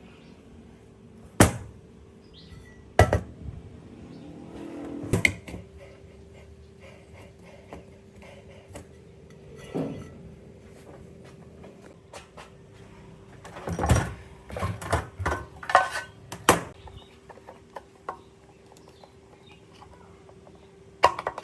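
Scattered sharp knocks and clacks of hand work on hard parts, irregularly spaced, thickest in a cluster after the middle, with a steady hum that starts about five seconds in.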